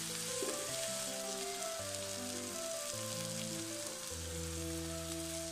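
Vegetable uthappam, already flipped, sizzling in oil in a hot pan with a steady hiss. Background music with long held notes plays over it.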